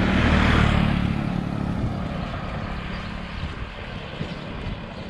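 A motor engine running steadily as it passes. It is loudest about half a second in, then slowly fades.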